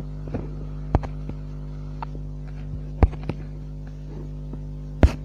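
Small electric motor running with a steady hum, broken by a few sharp knocks, the loudest about three and five seconds in.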